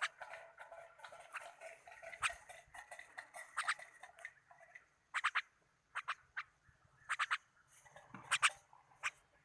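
A pet bird chattering: warbling calls for the first few seconds, then clusters of short, sharp chirps and clicks.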